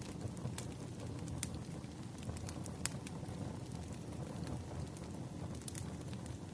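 Wood fire burning: a steady low rumble of flames with sharp, irregular crackles and pops from the burning logs.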